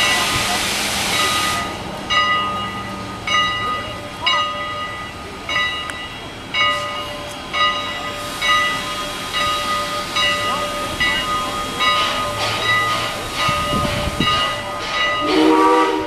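Steam locomotive venting a loud hiss of steam that cuts off about two seconds in, after which the locomotive's bell rings steadily, about one stroke a second.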